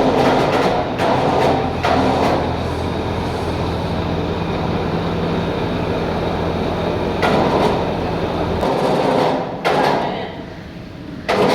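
Heavy knocks, several spaced a second or more apart, as a coupling is fitted into its box, over a steady low machine hum that cuts off about three-quarters of the way through.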